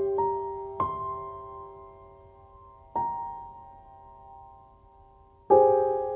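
Soft background piano music: a few slow, separate notes left to ring and fade, with a louder chord near the end.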